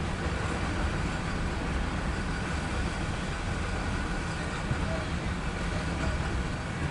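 Loaded coal hopper cars of a freight train rolling past on the rails, a steady, even rumble of wheels on track.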